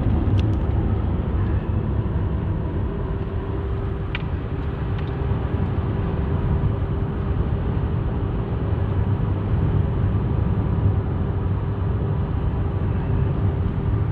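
Steady road and engine rumble inside a moving car, with a faint steady hum that comes in about three seconds in.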